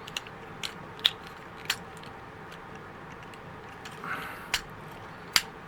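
Hard plastic clicks and snaps from a Transformers Leader Class action figure's joints and parts being worked by hand, about six sharp clicks at irregular spacing, with a brief rustle of handling about four seconds in.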